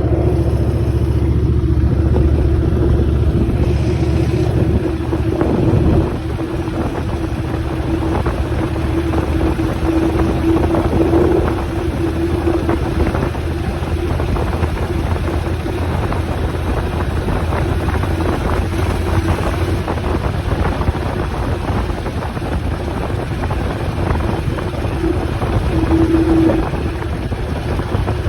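Motorcycle engine running steadily while riding, with a steady whine over it and wind rushing across the microphone.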